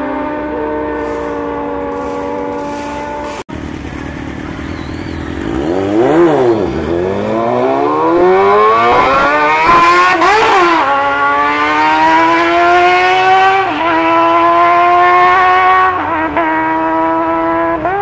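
Drag-racing motorcycle engines running and revving hard, the pitch rising and falling in quick sweeps, then climbing in steps with short dips.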